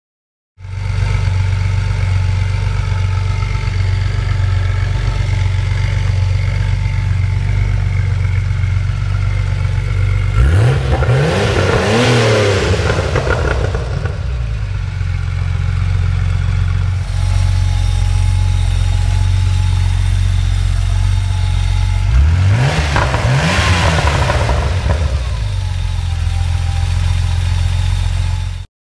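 1988 Porsche 911 slant nose turbo's air-cooled turbocharged flat-six idling steadily through a B&B aftermarket exhaust, revved twice: about ten seconds in and again about twenty-two seconds in, each rev rising quickly and falling back to idle over roughly three seconds.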